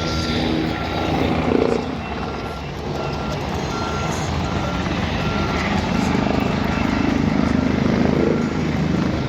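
A vehicle's reversing alarm beeping steadily, about twice a second, over the loud, steady noise of running engines.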